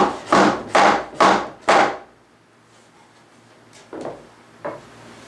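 Wood rubbing and scraping against wood in about five short strokes, roughly two a second, as a glued tabletop is worked back into line on its frame. Two weaker strokes follow near the end.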